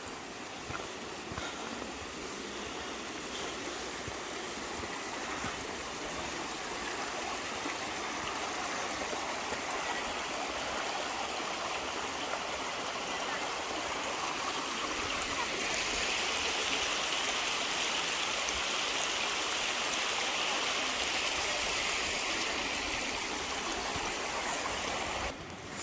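Mountain stream rushing over rocks, a steady watery hiss that grows louder about halfway through and cuts off just before the end.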